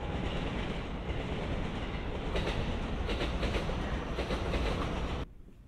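Freight and commuter trains rolling through a rail yard: a steady rumble with wheels clacking rhythmically over rail joints and points, the clacking strongest from about two seconds in. The sound cuts off suddenly near the end.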